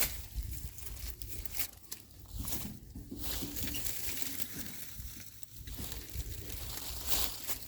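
Leaves and soil rustling and crackling in irregular bursts as uprooted mint clumps are handled and pressed down onto loose ground.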